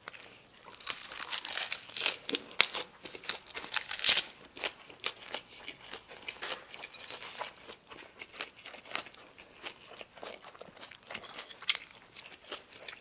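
Close-miked chewing of a mouthful of lettuce wrap: crisp, crackly crunches and wet mouth sounds, loudest and densest in the first few seconds with the sharpest crunch about four seconds in, then softer chewing.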